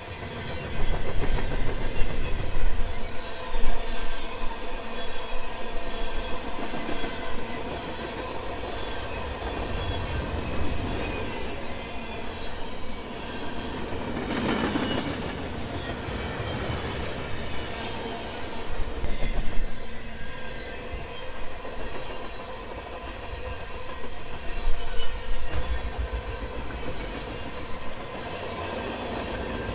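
BNSF freight train rolling past, its steel wheels running on the rails with a steady rumble and uneven knocks, loudest in the first few seconds.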